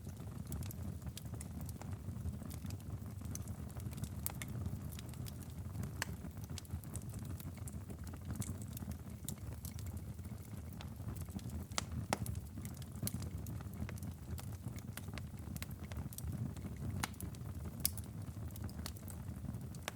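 Wood fire crackling in a fireplace: a steady low rumble of flames with scattered, irregular sharp pops and snaps, a few louder ones about twelve and eighteen seconds in.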